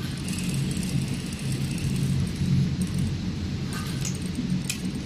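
Sewing machine running steadily with a low hum, with a few sharp clicks about four seconds in.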